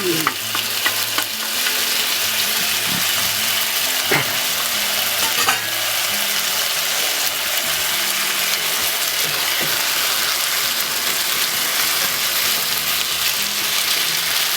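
Chicken pieces and chopped garlic sizzling steadily in a hot wok of oil as they are stirred, with a few sharp knocks of the utensil against the wok in the first six seconds.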